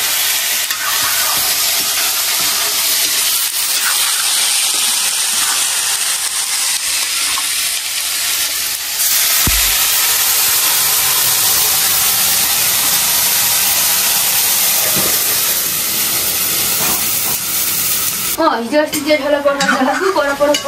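Sliced potatoes frying in oil in a steel wok, a steady sizzle with a spatula scraping and stirring. About nine seconds in, water is poured into the hot wok and the sizzle gets louder, with hissing steam.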